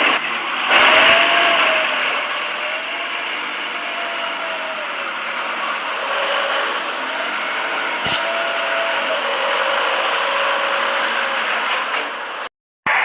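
A small motor running steadily with a noisy whir and a faint tone that slowly rises and falls, a single click about eight seconds in, then a brief dropout near the end.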